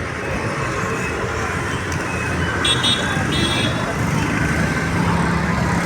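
Steady road traffic noise with a motor vehicle running. Brief high-pitched chirping sounds come through about three seconds in.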